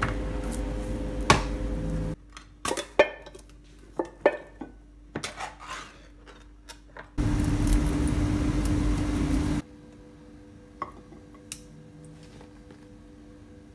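Kitchen handling sounds: scattered clinks and knocks of dishes and utensils, and a steady stretch of noise lasting about two seconds that starts and stops abruptly.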